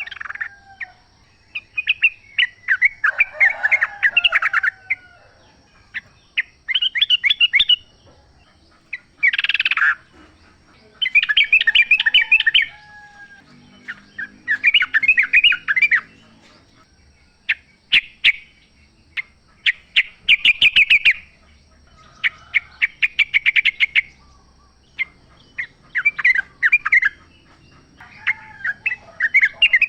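Yellow-vented bulbuls singing in short phrases of quick chattering notes, one phrase every two or three seconds.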